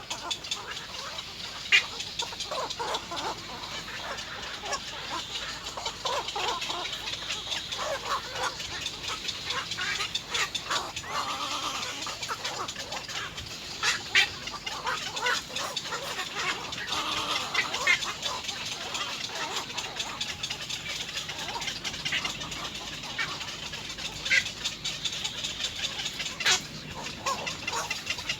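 Birds calling: a dense, continuous run of short clucking and chattering calls, with a few louder single calls standing out.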